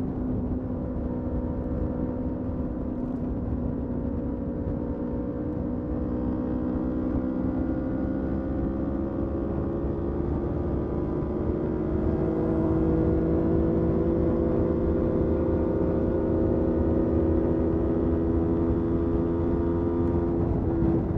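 Motorcycle engine running under steady throttle, its note climbing slowly and evenly as the revs build, over a low rumble. It gets a little louder about halfway through, and the pitch drops right at the very end.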